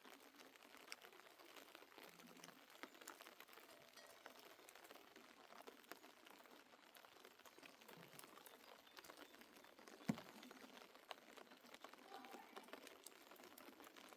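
Near silence: faint scattered ticks, with one soft knock about ten seconds in.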